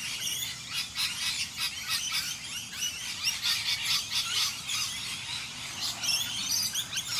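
Several birds chirping and singing at once: a dense, overlapping run of short high calls and quick rising and falling notes.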